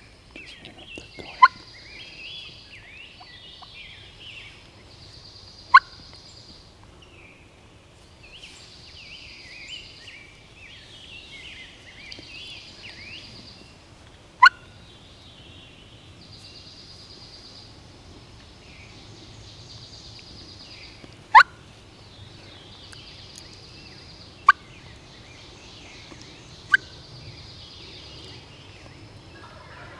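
Wild turkey gobbling, six short loud gobbles spaced irregularly, over a continuous chorus of songbirds.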